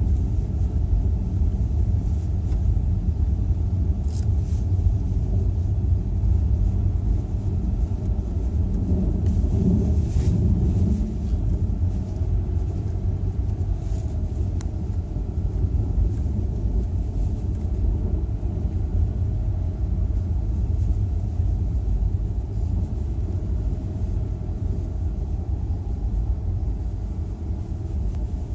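Steady low rumble of a car driving, with a few faint ticks.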